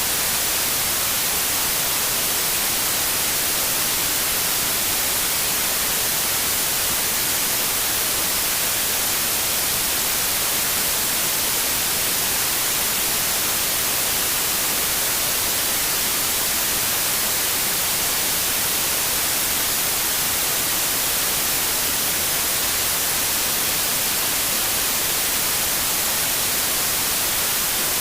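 Steady synthetic white noise: an even, unchanging hiss, brightest in the treble, with no events or variation.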